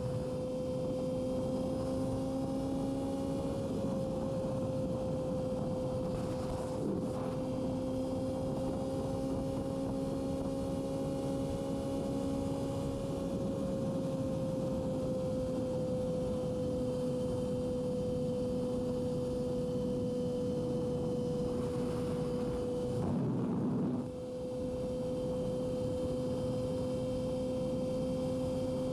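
Yamaha R6 sport bike's inline-four engine under way at a steady, held engine note over wind and road noise. The pitch sags slightly about halfway through, and the note breaks briefly about 23 seconds in before it resumes.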